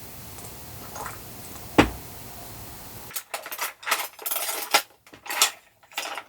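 A single sharp knock, then metal cutlery clinking and scraping against a plate in quick irregular strokes as a roast chicken is cut apart.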